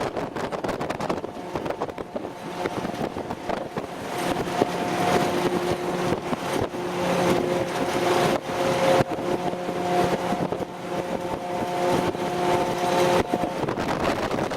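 Military convoy vehicle driving, with loud road and wind noise; from about four seconds in, a steady engine tone holds until near the end.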